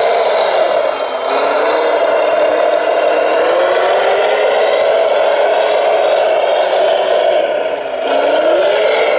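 A radio-controlled model truck's motor and gearing whining steadily. The pitch dips and climbs back twice, about a second in and near the end, as the truck eases off and speeds up again.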